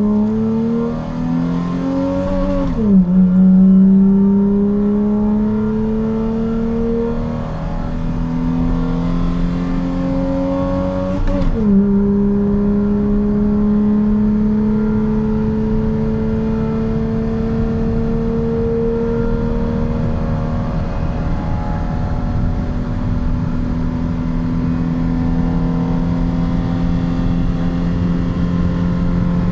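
Nissan pickup engine with an aftermarket air filter and tuned exhaust accelerating hard under full throttle, its pitch climbing through the gears. The revs drop sharply at two upshifts, about 3 and 11 seconds in, then rise slowly and steadily in a long pull at high speed.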